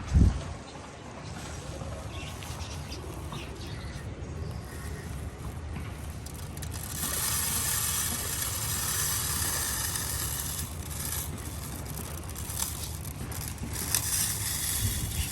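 Foxtail millet seed being poured into a plastic bird feeder: a rattling hiss that swells about seven seconds in and eases off a few seconds later. A single thump at the very start, and a few light clicks near the end.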